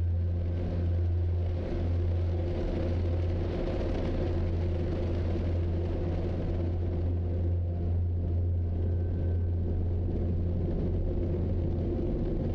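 Steady low vehicle rumble, running evenly without change.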